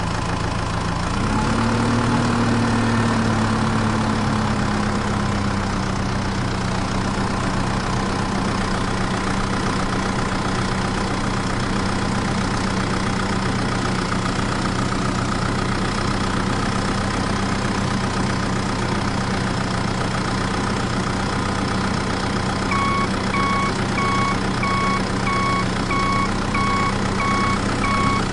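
Diesel tractor engine idling steadily, its pitch rising slightly a second or two in and then holding. Near the end a reversing beeper starts, beeping about three times every two seconds over the engine.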